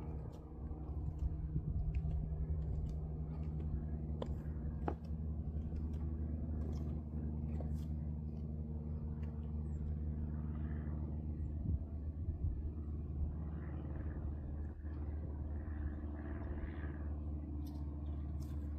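A steady low machine hum with several fixed pitches, and a few faint clicks over it.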